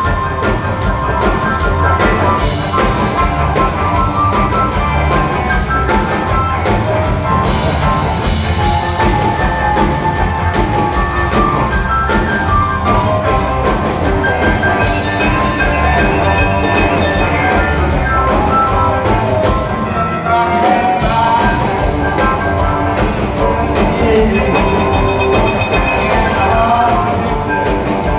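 Live rock band playing at full volume: amplified electric guitars over bass and drum kit, with a brief drop in the low end about twenty seconds in.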